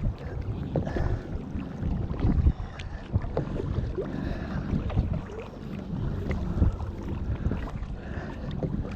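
Kayak paddling on a river: paddle blades dipping and splashing, with small splashes and drips of water against the hull, over a low rumble of wind on the microphone.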